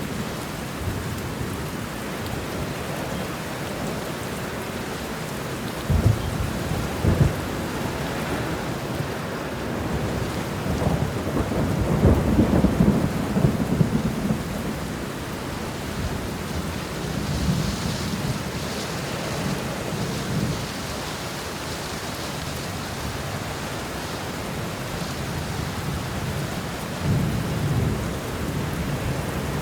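Steady rain with rolls of thunder: two sharp claps about six and seven seconds in, a longer rolling rumble a few seconds later, and softer rumbles near the end.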